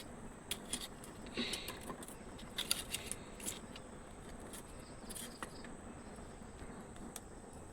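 Scattered light clicks and taps, a few short ones spread across the stretch, over a faint steady high-pitched tone and low background hiss.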